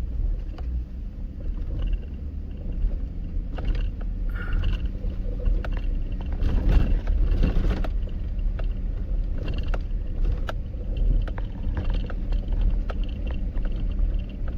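Inside a vehicle driving slowly over a rough, bumpy dirt track: a steady low engine and tyre rumble with scattered knocks and rattles as it jolts, getting rougher and louder about halfway through.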